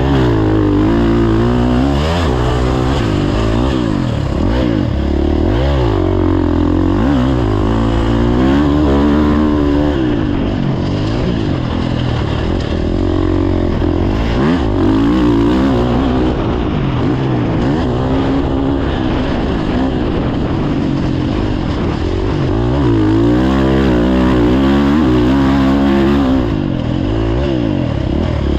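Dirt bike engine running hard, its pitch rising and falling again and again as the throttle is opened and closed through the track's sections.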